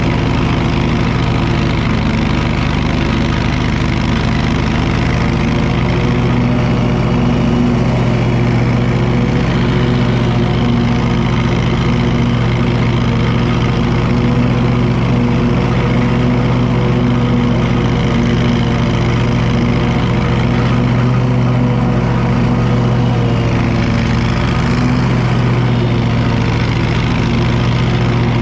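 Wright commercial lawn mower engine running steadily under load, with an even, unchanging hum.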